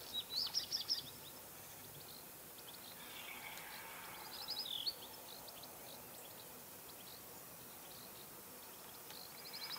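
A songbird singing short phrases of quick, high chirping notes three times: at the start, about four seconds in, and at the end. Between the phrases there is only a faint, steady outdoor hiss.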